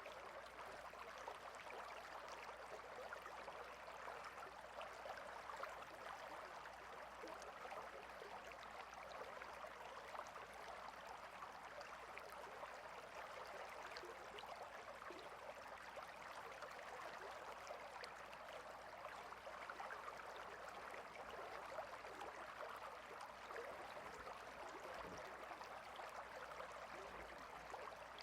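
Stream of water flowing steadily, a faint continuous babble.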